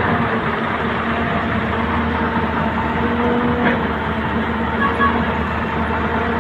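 Heavy diesel engine running steadily at an even speed, with a light knock near the middle and a brief high note about five seconds in.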